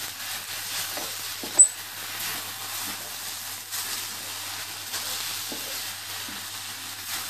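Grated carrots sizzling as they roast in ghee in a stainless steel kadai, stirred and scraped with a wooden spatula. One sharp clink about a second and a half in.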